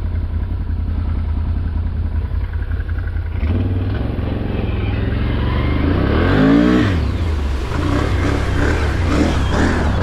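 Vehicle engine running steadily, picking up about three and a half seconds in, with one brief rev that rises and falls near the seven-second mark.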